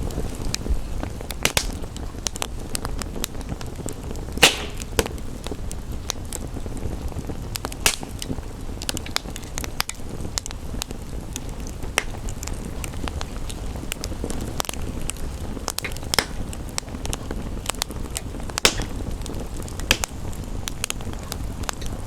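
Wood fire crackling, with irregular sharp pops every second or so, the loudest about four seconds in, over a steady rumbling hiss of fire and rain.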